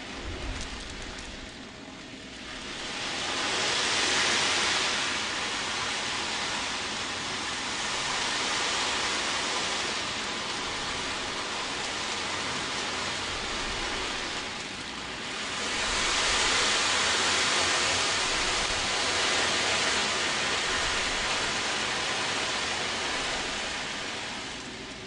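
Ocean drum (wave drum) tilted slowly so the beads inside roll across the head, making a steady surf-like wash. It swells up twice, a few seconds in and again about two-thirds of the way through, easing back in between.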